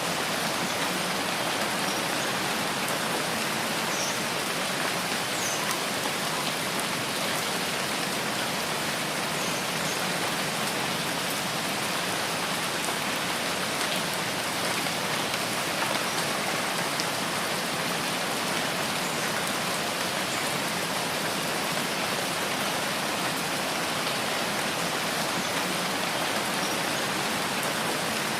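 Steady rain falling, an even hiss with faint patter of drops on a surface.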